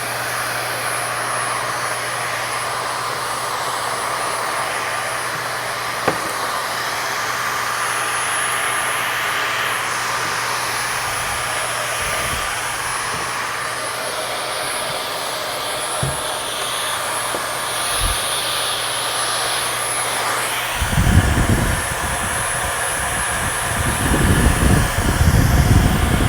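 Vacuum cleaner running steadily with a whine, sucking dust and crud out of the inside of a disco light. Low knocks and rumbles come near the end as the nozzle is worked around.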